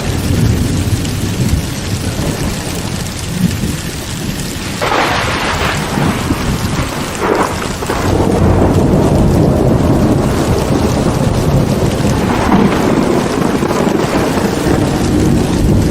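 Heavy rain falling steadily, with thunder rumbling low underneath; the storm grows louder about halfway through.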